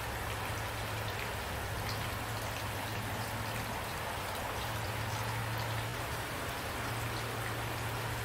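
Steady rain falling, an even hiss of many drops, with a low steady rumble underneath.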